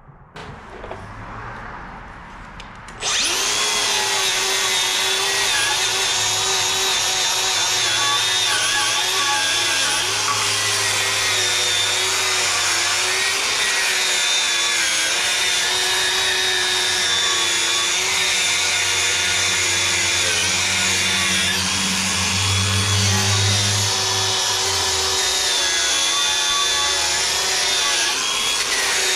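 Angle grinder starting up about three seconds in and grinding down a fresh weld on steel, a steady loud whine that wavers slightly as it bites.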